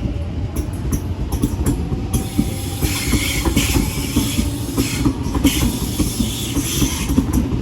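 Electric passenger train running along the platform tracks, its wheels clattering in quick knocks over rail joints under a steady rumble. A hiss of wheel and rail noise rises about two seconds in and fades near the end.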